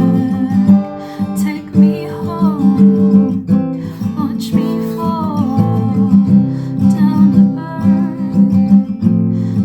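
Acoustic guitar playing, with a singing voice coming in at times.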